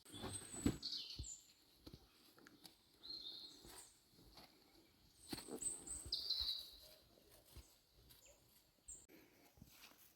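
Small birds chirping in short, high calls every second or two, with scattered light knocks in between.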